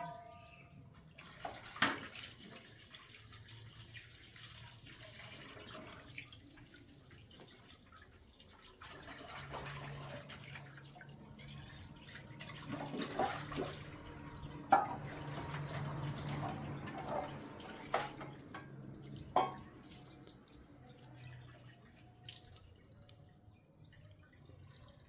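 Water running, with a few sharp knocks and a low steady hum through the middle.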